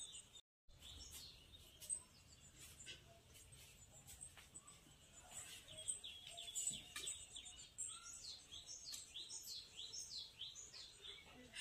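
Faint bird chirping: a run of short, high chirps, each falling in pitch, coming about three a second in the second half.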